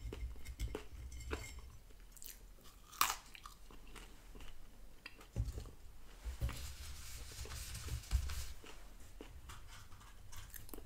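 Close-miked chewing and crunching of McDonald's french fries, with small mouth clicks. A soft rustle comes about six to eight seconds in.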